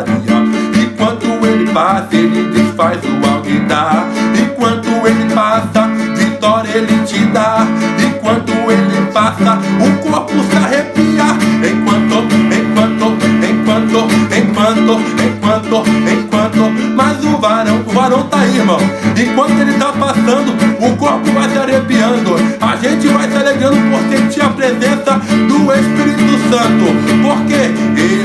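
Acoustic guitar (violão) strummed continuously in a fast, driving Pentecostal 'corinho de fogo' rhythm.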